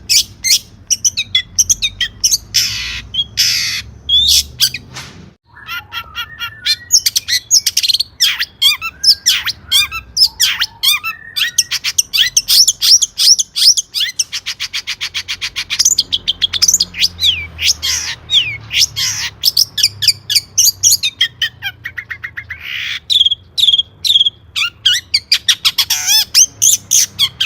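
Long-tailed shrike (cendet) singing loudly and continuously: a fast, varied stream of sharp chirps, harsh squawks and mimicked phrases of other birds. A rapid, even rattling trill comes about halfway through.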